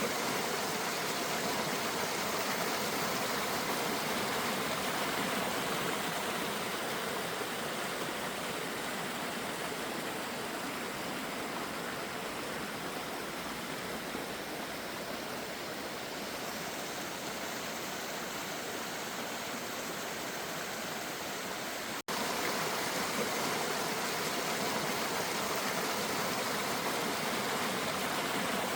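Water rushing steadily in a small river, with a brief break about 22 seconds in.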